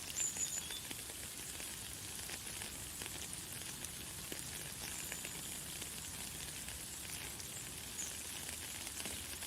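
Light, fine rain falling steadily, a dense crackle of small drops. A few brief high bird chirps come through it: near the start, around five seconds in, and about eight seconds in.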